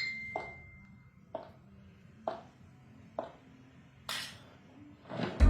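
A series of sharp knocks or taps, roughly one a second, with a short high ping at the start that fades out within about a second.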